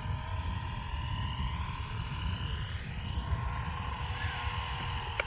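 Blade 230 electric RC helicopter's motor and rotor whine, pitch slowly wavering as it comes down to land. Wind buffets the microphone throughout.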